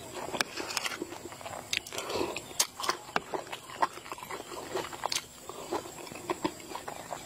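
Close-up wet chewing and lip-smacking of a mouthful of boiled duck egg in chili sauce, a string of irregular smacks and clicks, with a metal spoon scraping and tapping through the sauce in the dish.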